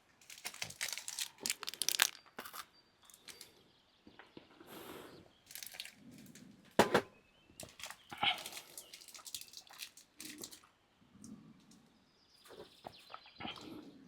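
Rustling and crinkling with scattered sharp clicks and knocks, as of things being handled, the loudest knock about seven seconds in.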